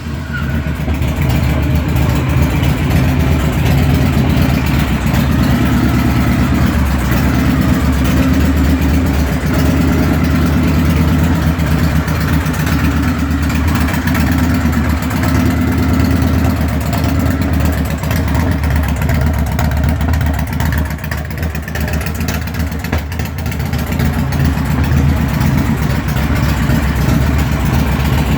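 2004 Victory Kingpin's 92 cubic inch Freedom V-twin engine running at idle just after a cold start, picking up over the first couple of seconds after catching, then running steadily. It is held low because the engine is cold.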